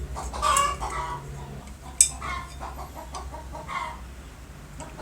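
Short animal calls, one every second or so, with a sharp click about two seconds in.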